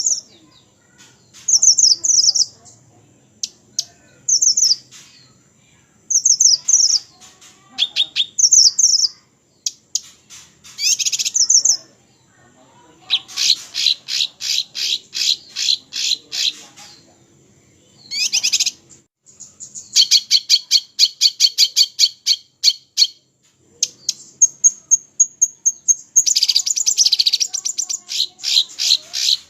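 Small songbirds singing: short high chirped phrases every second or two, then long fast trills of many quick notes, with a thin steady whistle shortly before the last trill.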